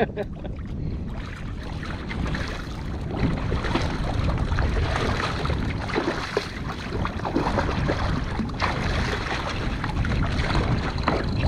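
Wind on the microphone over water sloshing and splashing around a kayak, with a few sharper splashes.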